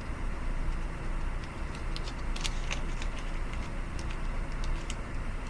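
Steady low background rumble with a few faint, short clicks.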